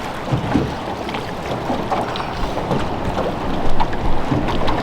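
Steady noise of a boat on the river, water wash and wind on the microphone, with a few faint small knocks.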